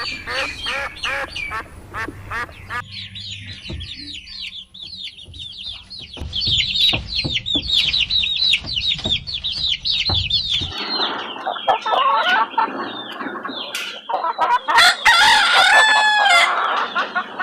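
Chickens calling: short repeated calls at the start, then a long run of quick high peeps, then louder clucking calls from about eleven seconds in.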